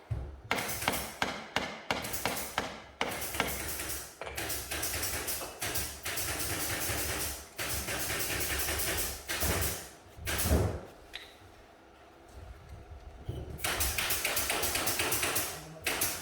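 Rapid hammer taps in runs of several knocks a second, with one heavier thump about ten seconds in and a short lull after it, typical of tapping masonry while building a brick fireplace.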